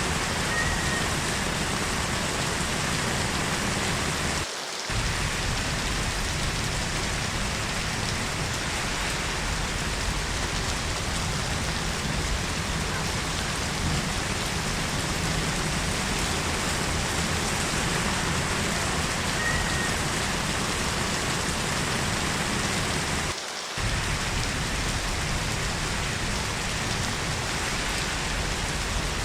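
Heavy rain falling steadily, a dense even hiss of drops. The sound briefly dips twice, about five seconds in and near twenty-four seconds.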